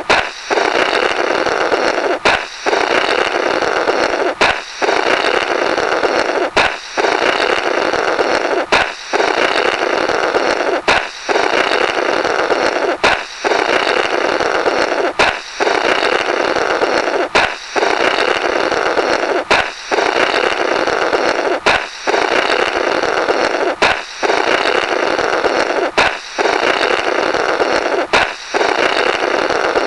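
Comic "Blorrrt" balloon sound effect on a loop: a balloon pops with a sharp crack, then someone blows through the burst rubber for about two seconds. The pair repeats roughly every two seconds, about fourteen times.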